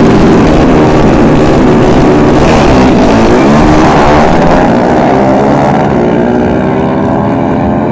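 Drag-racing motorcycle engines running hard at full throttle, very loud. Several engine notes shift in pitch and cross one another partway through, then ease off a little near the end.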